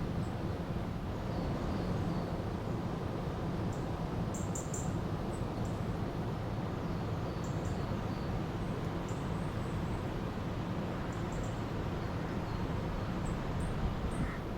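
Steady rushing of a river's flowing water, with small birds chirping briefly now and then, a cluster of chirps about four seconds in.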